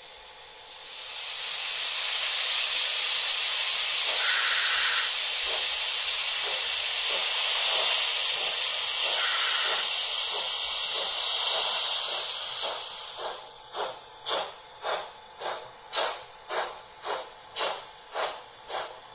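Steam locomotive sound from an ESU LokSound 5 decoder in a Märklin H0 model of a DRG class 45, played through the model's loudspeaker: a long steam hiss starting about a second in, then, from about two-thirds of the way through, steady exhaust chuffs at about two a second.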